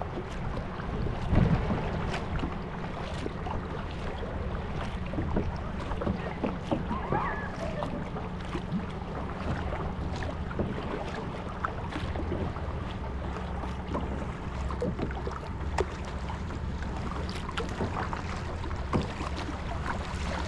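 Kayak paddling: small splashes and drips from the paddle strokes, over a steady low rumble of wind on the microphone.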